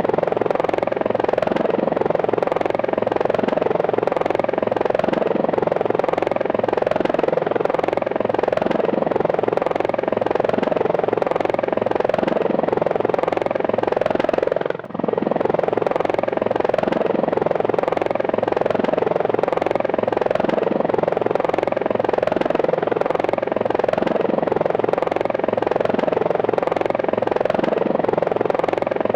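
Helicopter flying, its rotor blades beating in a steady rapid rhythm over the engine's continuous whine. The sound drops out briefly about halfway through, then resumes unchanged.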